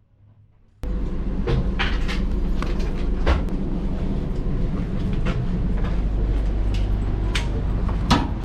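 Moving passenger train: a steady low rumble from the running gear, with irregular sharp clicks and knocks from the wheels and carriage. It starts abruptly about a second in, after near silence.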